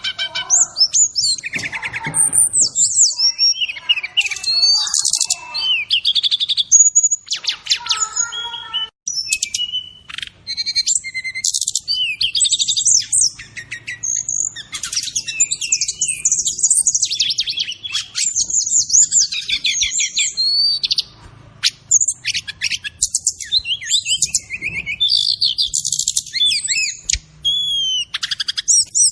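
Songbird song of the kind kept as an SRDC (sikatan rimba dada coklat, brown-chested jungle flycatcher) tutor recording: a long, nearly unbroken run of fast, varied chirps, trills and whistles, with brief pauses.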